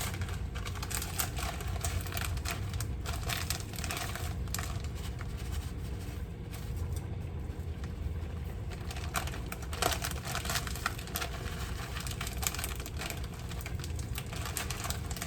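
Plastic bag of frozen shredded cheese crinkling as it is handled and shaken out, with irregular crackles and rustles over a low steady hum.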